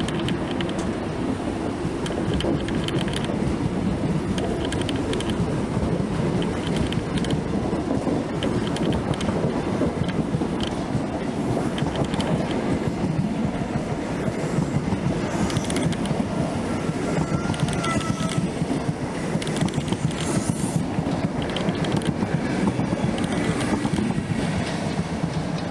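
Passenger train's coaches rolling slowly past and away over points, a steady rumble with the wheels clicking over rail joints. A brief high squeal about two-thirds of the way through.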